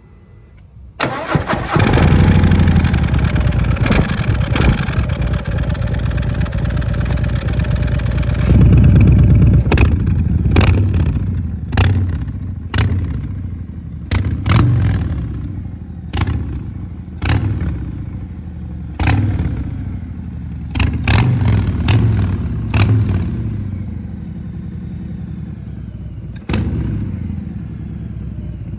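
Harley-Davidson Breakout 114's Milwaukee-Eight 114 V-twin starting about a second in and settling into a fast idle. In the middle it is revved with about a dozen sharp throttle blips, then it idles again, with one more blip near the end.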